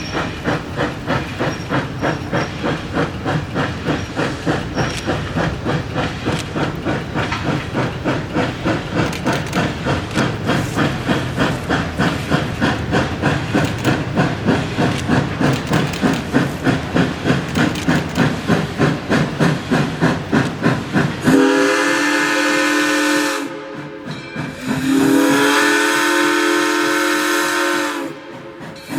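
Arcade & Attica 2-8-0 Consolidation steam locomotive #18 working past with steady exhaust chuffs at about two a second. About 21 seconds in, the chuffing gives way to its chime whistle, blown in two long blasts.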